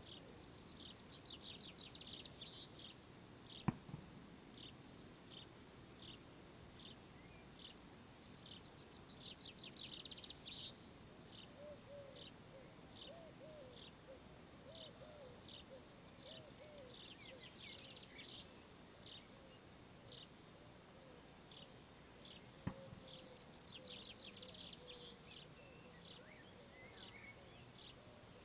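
Faint bird calls: a steady series of short, high chirps under a second apart, broken four times by a rapid trill lasting a second or two. Two soft clicks are heard, a few seconds in and near the end.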